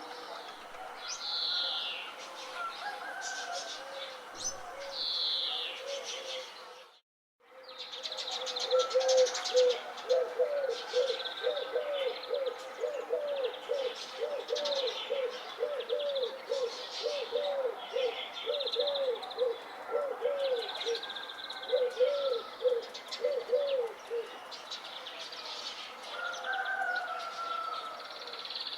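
Village morning birdsong: many small birds chirping and twittering, with a low cooing call repeated about twice a second through most of it. The sound cuts out completely for a moment about seven seconds in.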